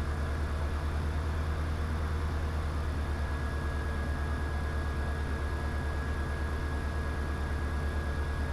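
Diamond DA20 light aircraft's engine and propeller droning steadily during the landing approach, a low, even, fast pulsing with a faint steady whine above it.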